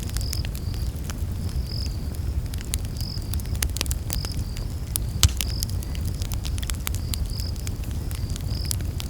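Wood campfire crackling and popping over a steady low rumble of flames, with one sharper pop about five seconds in. Behind it, a night insect chirps a short high note about twice a second.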